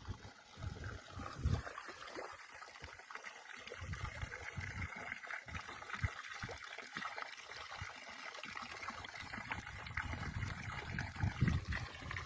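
Stream water trickling and gurgling, a steady hiss with small splashes, and irregular low rumbles underneath.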